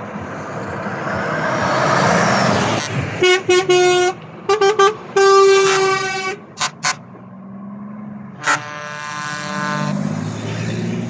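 A truck passes and sounds its horn in a string of short toots, a longer blast of about a second, and two more quick toots, then one last toot and a fading horn tone; low engine rumble returns near the end.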